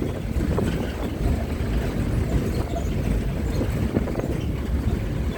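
Low rumble of a moving bus, with wind buffeting the microphone.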